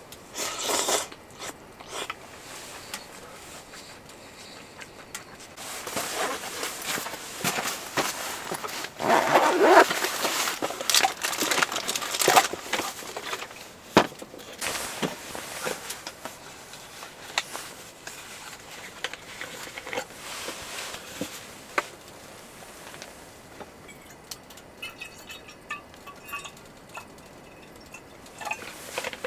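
Rustling and crinkling of a snack bag being handled, with scattered sharp clicks and small clinks, busiest from about six to thirteen seconds in and sparser after.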